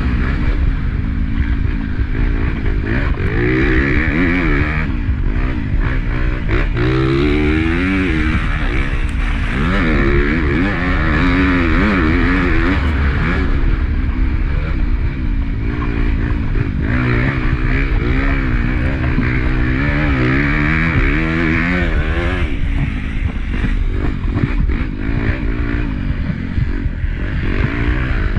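Honda CRF250 four-stroke single-cylinder motocross bike racing, its engine revving up and dropping back again and again as the throttle opens and closes through the track.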